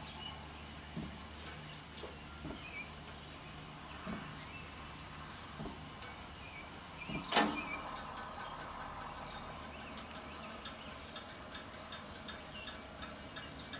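Gas space heater running with its main burner lit: a steady low hum, one sharp click about seven seconds in, then light irregular ticking.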